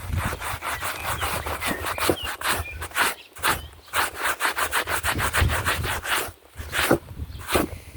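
Stiff brush scrubbing in rapid back-and-forth strokes, several a second, with short pauses about three and six seconds in.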